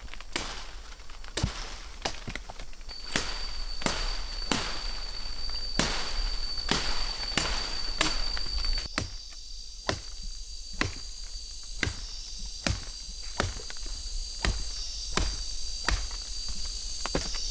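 Regular sharp knocks, about one and a half a second, like a tool striking repeatedly. A steady high-pitched insect whine joins about three seconds in.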